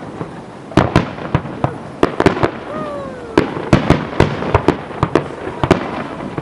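Fireworks display: a quick, irregular string of sharp bangs from bursting shells, well over a dozen, some with an echoing tail. A short falling whistle sounds about three seconds in.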